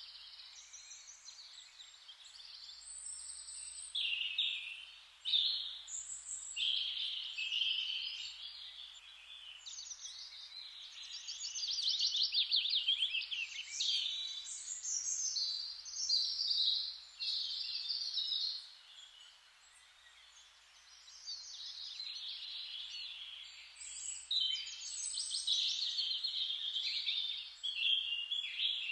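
Songbirds singing in an overlapping chorus of chirps and rapid trills, phrase after phrase, with a faint steady hiss of background noise. The song thins out briefly about two-thirds of the way through.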